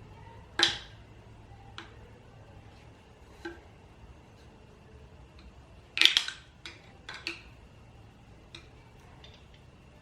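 Sharp metal clinks of a screwdriver working against a suspension damper's tube while an old oil seal is being knocked out. There is one loud clink just after the start, a few lighter ones, and then a quick cluster of several at about six to seven seconds.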